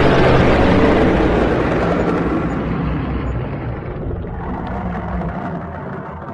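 Dragon sound effect: a deep, noisy rumbling roar that fades gradually over several seconds.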